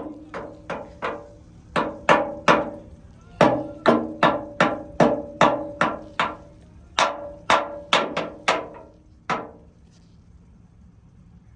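Hammer striking steel on an excavator boom: about twenty hard, ringing blows, roughly two a second in short runs, stopping about nine seconds in.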